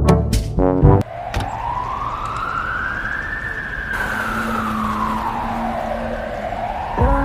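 Siren wailing: one slow rise and fall in pitch, starting to climb again, over a rumbling hiss, after brass music stabs cut off about a second in. Music starts again near the end.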